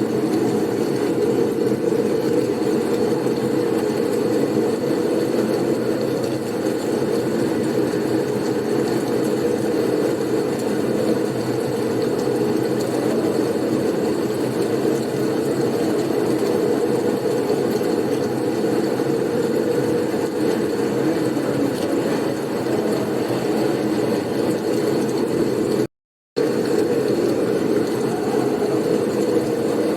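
Blizzard wind soundscape: a steady, deep rushing of storm wind that cuts out completely for about half a second near the end.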